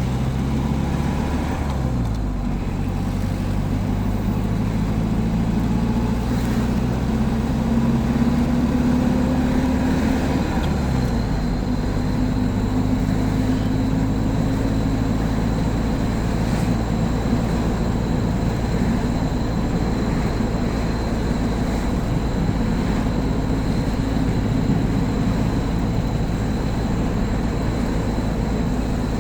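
Old 1952 car's engine running as it is driven, with road noise. The engine note climbs and drops back twice in the first eleven seconds, then holds steady.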